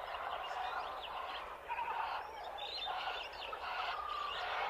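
Steady background chorus of many faint bird chirps and calls, like tropical forest ambience.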